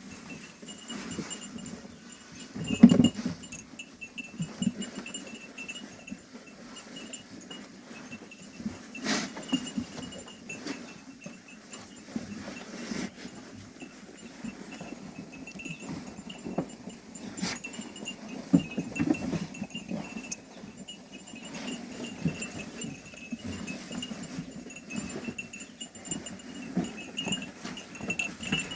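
A flock of sheep bleating and moving about. The loudest call comes about three seconds in.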